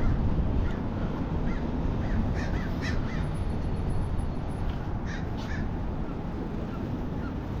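Birds giving short, harsh cawing calls in clusters, about two and a half seconds and five seconds in, over a steady low rumble.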